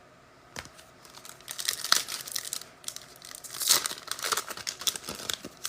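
Foil trading-card pack wrapper being torn open and crinkled. A dense run of crackles starts about a second and a half in.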